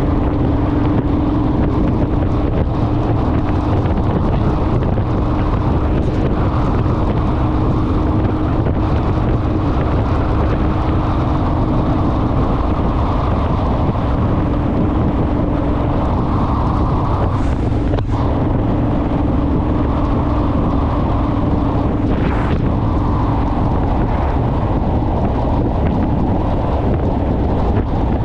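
Honda Rebel motorcycle cruising at a steady speed: a steady engine drone under heavy wind noise on the microphone.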